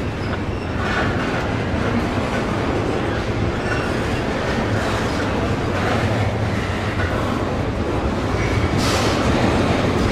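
Double-stack intermodal freight train rolling past, its steel wheels rumbling steadily on the rails. Now and then a brief high squeal rises above it, strongest near the end.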